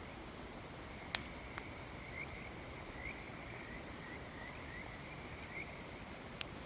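Bonfire crackling, with a sharp pop about a second in and another near the end over a steady low hiss. Behind it, a steady high-pitched chirping call with short repeated chirps, like frogs or insects at night.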